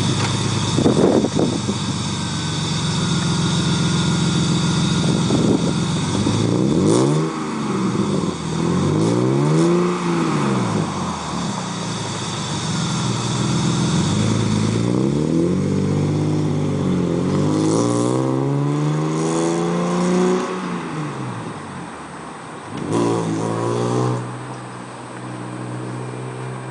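1999 BMW E36 M3's straight-six engine with headers, a straight-through midpipe and a MagnaFlow exhaust, revved up and back down several times, each rev rising and falling over a second or two, with steadier running between revs and a lower steady note near the end.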